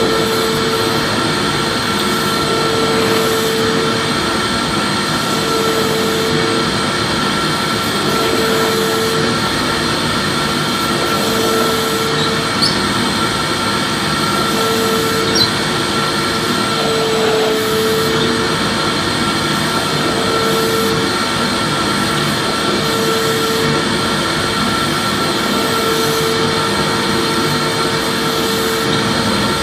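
Vacuum cleaner running steadily: a constant whirring rush with a thin high whine, and a lower hum that swells and fades every few seconds. Two faint ticks near the middle.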